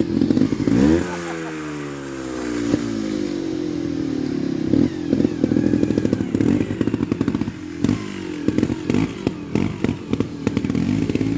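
Trials motorcycle engine at low revs. About a second in it is blipped, and the revs rise sharply, then fall away over a couple of seconds. After that come repeated short throttle bursts with knocks from the bike.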